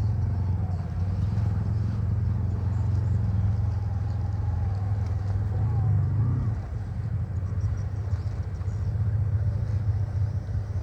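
Jet ski engine running steadily with a low drone, easing off a little about six and a half seconds in.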